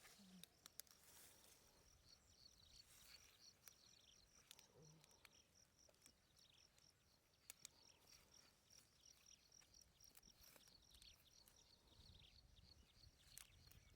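Near silence with faint insect chirping: a high, evenly repeated pulse, several a second, plus a few scattered small clicks.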